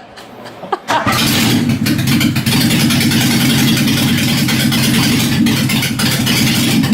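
Nissan S12 Gazelle's engine starting about a second in, then running loud and steady with its exhaust not yet fitted.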